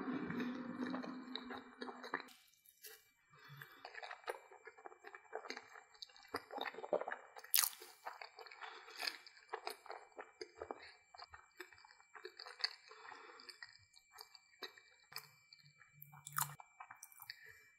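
Close-miked chewing of a mouthful of corn dog: many small, irregular wet clicks and soft crunches from a closed mouth. A louder stretch of sound at the start cuts off abruptly about two seconds in.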